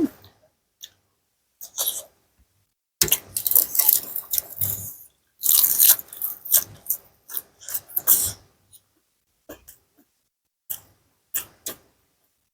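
A person eating tam sua with pickled seafood close to the microphone: wet chewing and crunching in a dense irregular run for several seconds, then a few scattered soft mouth clicks near the end.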